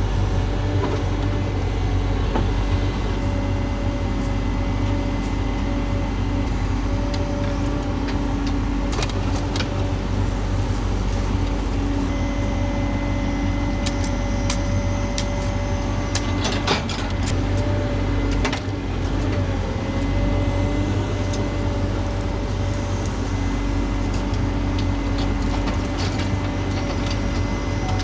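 Heavy-equipment engine running steadily at a constant speed, with scattered clicks and knocks over it.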